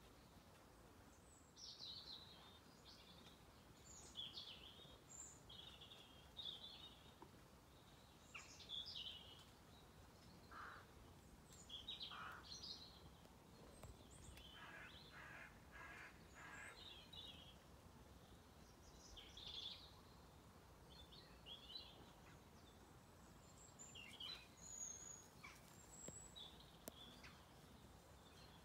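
Faint birdsong: many small birds chirping and calling in short phrases, with a brief run of lower, harsher calls about halfway through.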